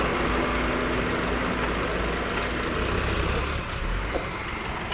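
Diesel engine of a JCB backhoe loader or a tractor running steadily, with a constant low rumble.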